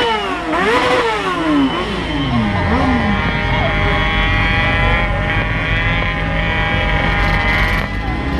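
Sport motorcycle engine revving: the revs fall away over the first few seconds, then the engine holds a steady note.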